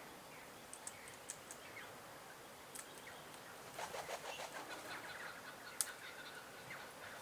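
Faint bird calls and short chirps, with a burst of rapid wing-flapping about four seconds in and a thin held note after it.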